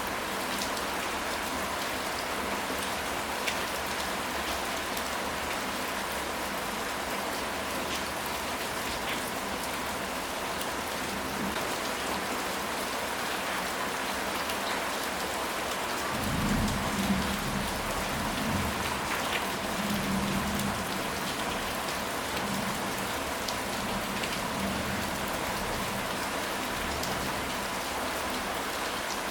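Steady rain falling, an even hiss with scattered drop ticks. A low rumble of thunder rises about halfway through and fades over a few seconds.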